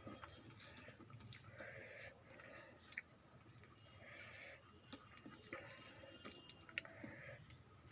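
Soft, wet chewing and mouth sounds from someone eating, coming about once a second, with two sharp clicks.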